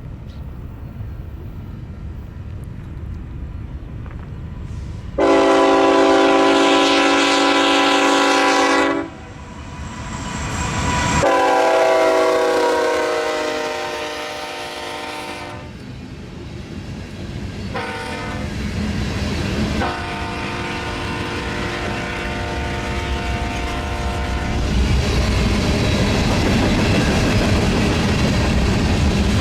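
Diesel freight locomotive's multi-chime air horn sounding the grade-crossing signal, long, long, short, long, as the train approaches and passes. The pitch drops slightly during the second blast. The rumble of the passing train runs under the blasts and continues after them.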